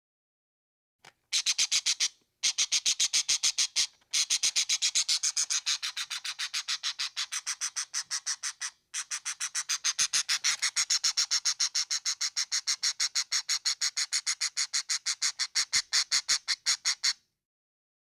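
A bird's rapid, evenly spaced high chirps, about six a second, in long runs broken three times by short pauses; it starts about a second in and stops a little before the end.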